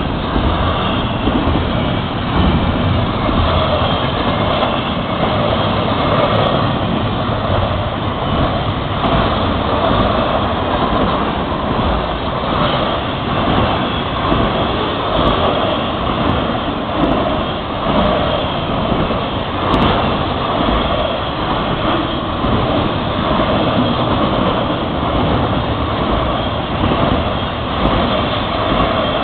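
Florida East Coast Railway freight train's cars rolling past: steady wheel and rail noise.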